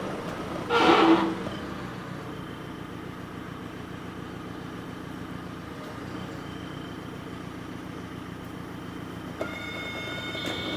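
Heavy lifting machine's engine running steadily under load, with a short loud burst of noise about a second in. Steady high whining tones join near the end.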